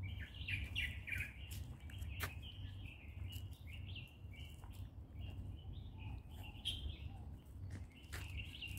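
Small birds chirping: many short, high chirps in quick succession, some overlapping, over a low steady rumble.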